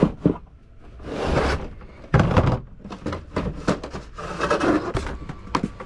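Handling noises: scattered knocks and clicks with a few short rustling scrapes, and one heavy thump about two seconds in, as equipment is moved about in a cramped space.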